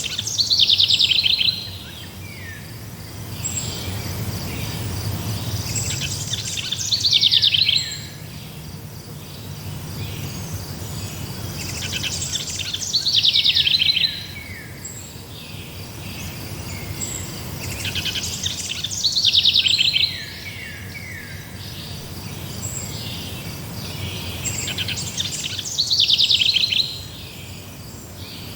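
A songbird sings a loud, high, trilling phrase of about two seconds, repeated about every six seconds, five times over. Faint, steady insect chirping runs underneath.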